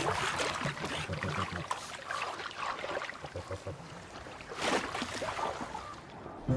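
Water splashing and trickling in irregular bursts, with a louder splash about four and a half seconds in.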